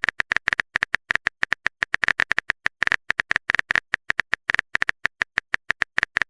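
Phone keyboard typing sound effect: a rapid, irregular run of short clicks, as a text message is typed out.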